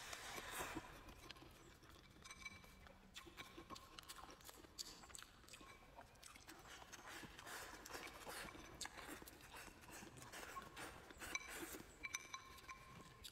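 Quiet close-up eating: a mouthful of rice and braised meat taken from the plate at the start, then chewing with many soft wet mouth clicks.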